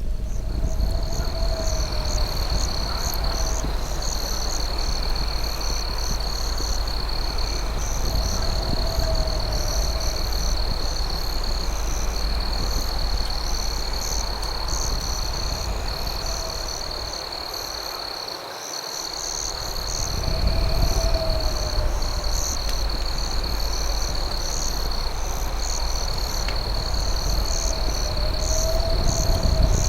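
Night insect chorus: a steady high cricket trill with brief breaks, faster pulsed chirping above it, and a lower warbling call that recurs every few seconds. Beneath them runs a low rumble that dips away briefly past the middle.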